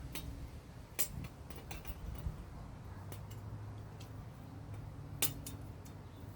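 Light metallic clicks and ticks from metal parts being worked under pressure, with sharper clicks about a second in and again about five seconds in, over a low steady hum.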